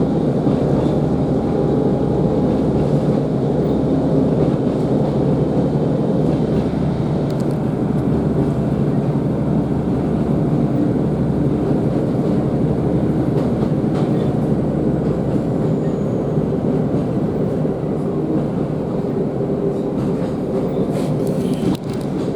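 Class 150 Sprinter diesel multiple unit under way, heard from inside the passenger saloon: a steady rumble from the underfloor diesel engine and the wheels running on the rails.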